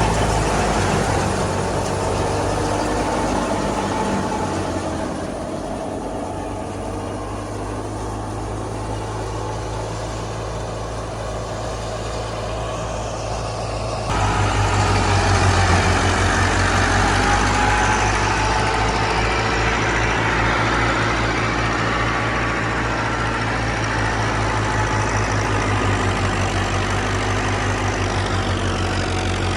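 Massey Ferguson 385 tractor's four-cylinder diesel engine running steadily while driving a mustard thresher, with the thresher's machinery noise mixed in. About halfway the sound changes abruptly and becomes louder.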